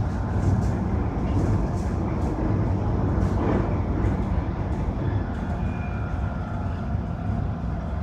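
Electric train running along the track, heard from inside the driver's cab: a steady rumble of wheels on the rails with scattered short clicks.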